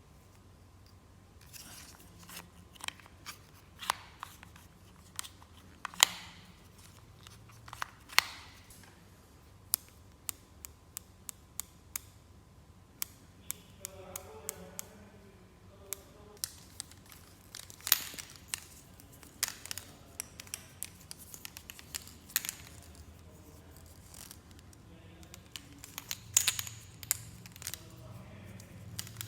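Hands unboxing and handling plastic toys and their packaging: an irregular run of sharp clicks and snaps, several of them much louder than the rest, with some crinkling and tearing of packaging.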